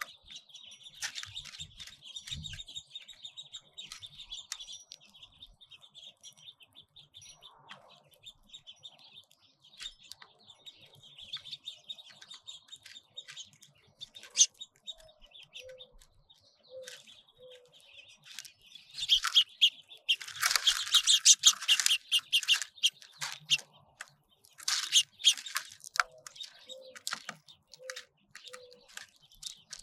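Finches chirping and twittering almost without a break, high-pitched, with a louder, denser run of chirps about two-thirds of the way through and another shortly after.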